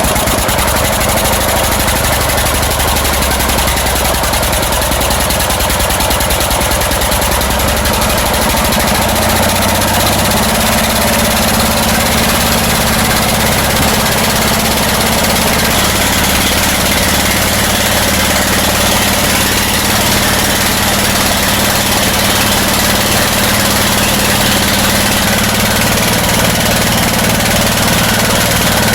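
Briggs & Stratton vertical-shaft tractor engine running steadily, its note shifting slightly about ten seconds in. It is running wrong and overheating, with the muffler glowing red hot; the cause is a sheared flywheel key that has thrown the ignition timing off.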